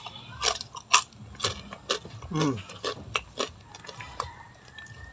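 Close-up crunching and chewing of crunchy food, a sharp crunch roughly every half second, mostly in the first three seconds or so.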